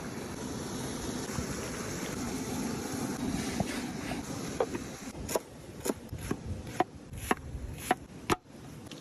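A steady rushing noise, then about seven sharp knocks or taps in the second half, roughly half a second apart.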